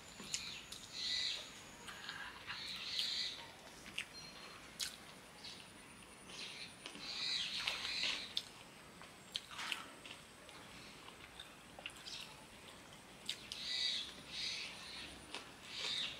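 Close-up eating sounds of chicken biryani being eaten by hand: short wet chewing and lip-smacking sounds coming irregularly, about one every second or two, with a few sharp clicks.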